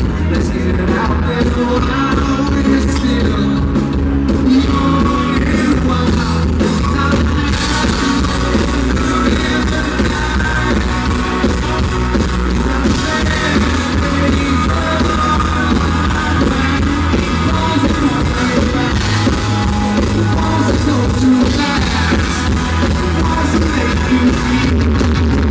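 A country band playing live and amplified, with singing. The audience recording is boomy and heavy in the bass, of poor quality.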